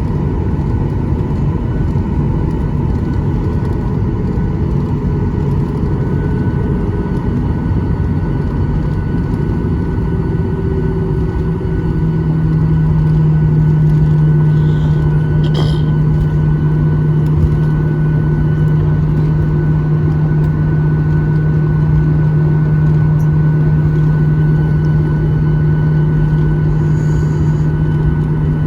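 Boeing 737-800 cabin noise: a steady rumble from the CFM56 jet engines and the air-conditioning. About twelve seconds in, a low steady hum comes in and holds, and the sound gets slightly louder.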